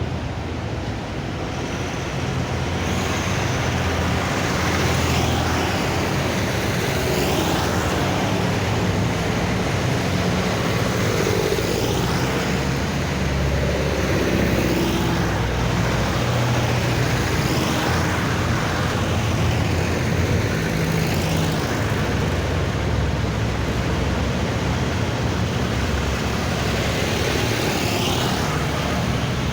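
Vintage tractors driving past one after another, their engines running steadily, with a new one passing every few seconds.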